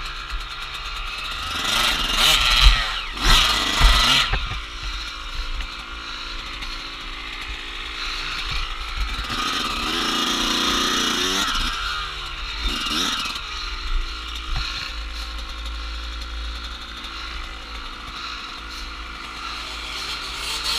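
Dirt bike engine running as it is ridden on an off-road trail, the pitch rising and falling with the throttle, with louder revving stretches about two to four seconds in and again around ten to thirteen seconds.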